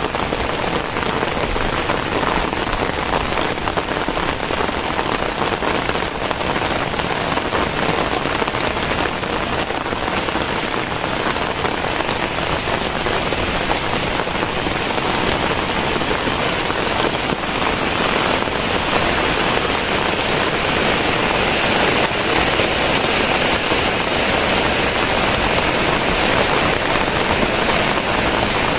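Very heavy rain falling steadily, a dense hiss of drops striking surfaces with countless fine patters, getting slightly louder and brighter from about twenty seconds in.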